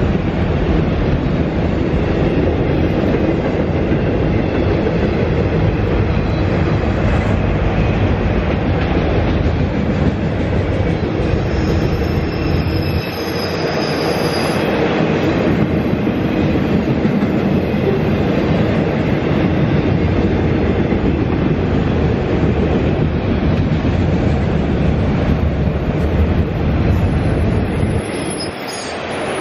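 Freight train of autorack cars rolling steadily past, wheels rumbling and clattering over the rail joints. A faint high-pitched squeal comes in for a few seconds about halfway through.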